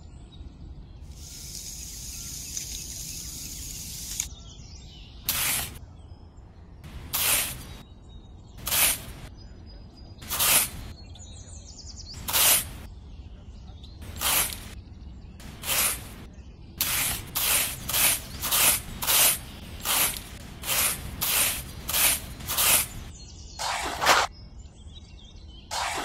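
Miniature shovel and trowel digging and scraping into sand, one short gritty scrape at a time: a scrape about every second and a half at first, then quicker, nearly two a second, in the second half. A steady hiss runs for about three seconds at the start.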